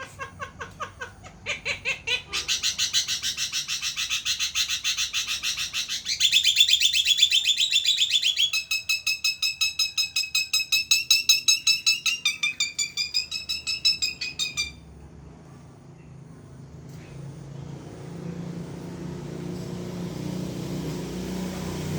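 Javan myna singing: a loud, fast run of repeated pitched notes, about six a second, stepping up and down in pitch for about fifteen seconds before breaking off. A low rumble follows and grows louder near the end.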